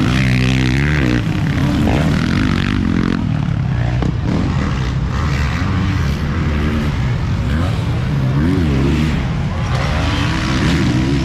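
Several motocross race bikes running on the track, their engines revving up and down over and over as riders accelerate and shift, with the sound staying loud throughout.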